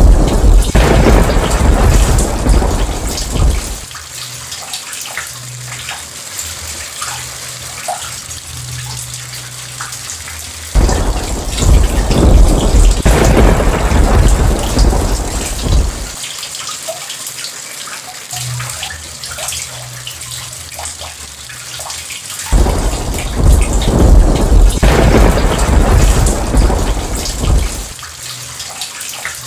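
Steady heavy rain with three long rolls of thunder, each lasting about five seconds: one already rumbling at the start, one about eleven seconds in, and one about twenty-two seconds in.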